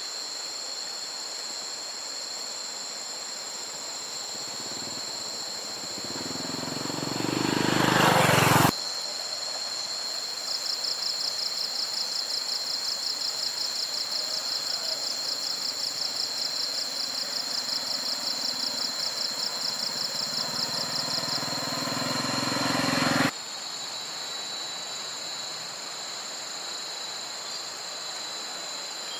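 Steady high insect chirring, joined by a fast rhythmic insect pulsing for several seconds in the middle. Twice a motor vehicle's sound swells louder and then cuts off suddenly, about eight seconds in and again near twenty-three seconds.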